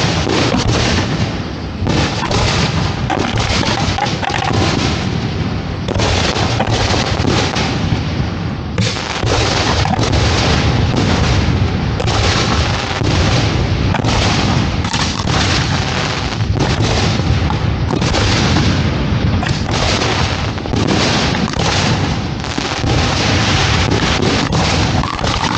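Fireworks show being fired: a dense, continuous barrage of shell launches and bursts, one bang after another with hardly a pause.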